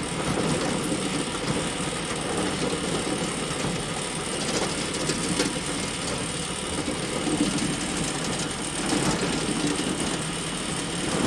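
Hay bale elevator running steadily: a continuous mechanical rumble with a light clatter running through it.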